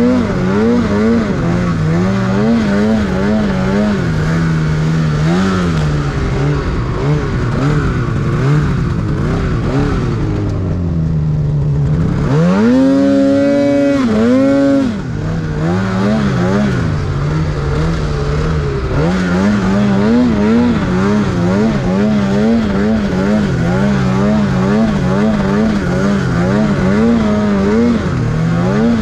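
Snowmobile engine running loud while riding through powder, its pitch rising and falling with constant throttle changes. About halfway through it revs up high for a couple of seconds, then drops back.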